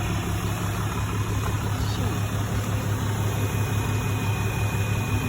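Dodge Ram pickup truck's engine running steadily with a low, even hum.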